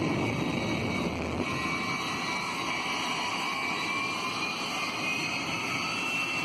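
Jet engine of a jet-powered drag vehicle spooling up: a steady rushing noise with a thin whine that rises slowly in pitch.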